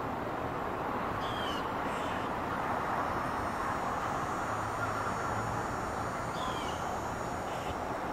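Steady outdoor background noise with short, faint bird calls that fall in pitch, once about a second in and again near the end.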